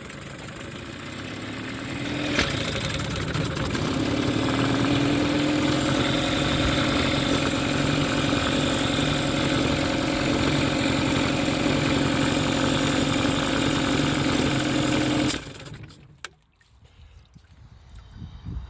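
Mercury 15 hp outboard motor running. Its speed rises over the first few seconds, with a sharp pop about two and a half seconds in. It then runs steadily until it cuts out abruptly near the end. The motor is backfiring and misfiring, a fault the owner has not yet diagnosed.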